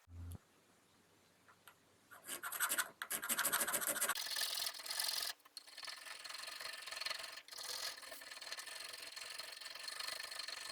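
Wood being filed by hand with a rasp or file. After about two seconds of quiet come quick scratchy strokes, then a short break a little before halfway, then steadier filing.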